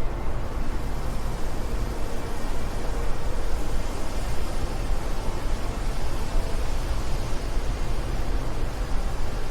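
Steady wind blowing, a dense rushing noise with a deep low rumble underneath.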